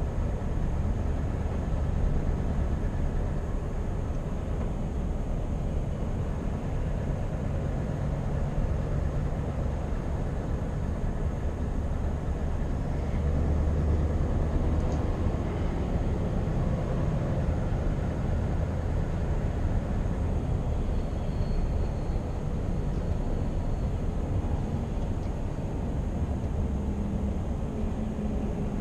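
Scania R520's V8 diesel engine running steadily while the truck drives, with a continuous low rumble and road noise.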